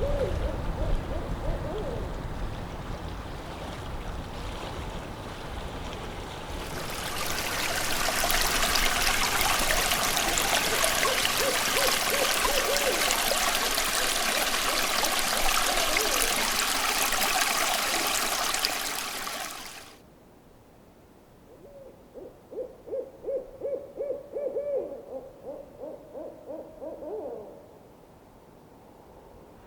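Several bouts of a rapid run of low hooting notes, like a bird's call, at the start, near the middle and again for several seconds in the last third. For a long stretch before the middle, a loud steady rushing hiss covers everything and then cuts off suddenly.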